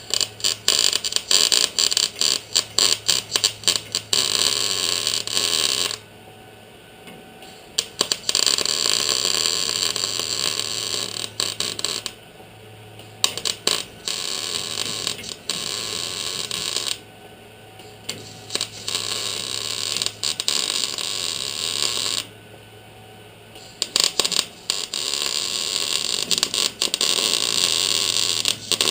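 Wire-feed (MIG) welder laying beads on sheet-metal body panels: a harsh, crackling sizzle in runs of about four to six seconds, broken by brief pauses, over a steady low hum.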